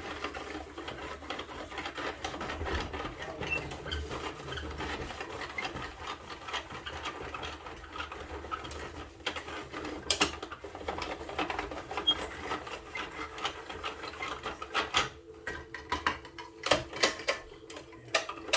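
Fast, continuous plastic clicking and rattling of a toy garbage truck being worked by hand, with a sharp knock about ten seconds in and a flurry of knocks near the end.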